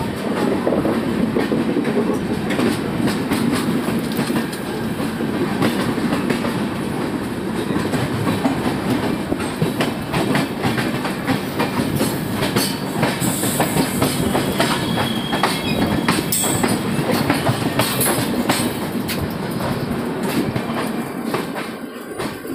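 Passenger train coaches rolling past close by: a steady rumble with the wheels clattering over the rail joints in many small clicks. It eases off slightly near the end.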